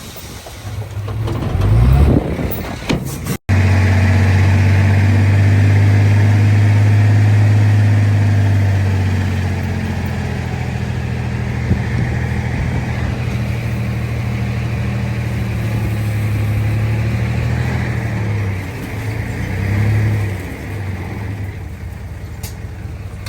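Heavy earthmoving machinery's diesel engine running steadily with a low drone, starting abruptly about three seconds in and easing a little in loudness after about eight seconds.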